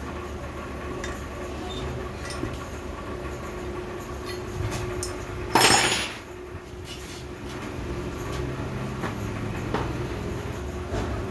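Metal parts and tools handled on a workbench during a turbocharger rebuild: scattered light clicks and taps over a steady background hum, with one loud, short noisy burst about halfway through.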